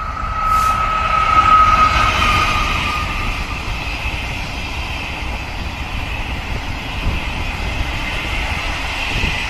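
A Chu-Kuang express passenger train, a locomotive hauling orange coaches, passes close by. A high steady whine sounds for the first few seconds and then fades, while the rumble and wheel noise of the coaches rolling past carry on.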